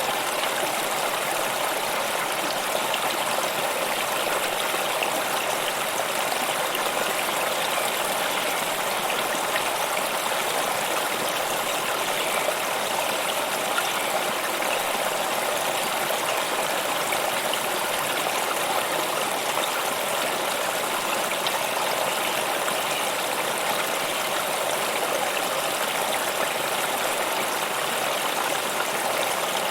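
Flowing stream water rushing steadily and evenly, with no change or break.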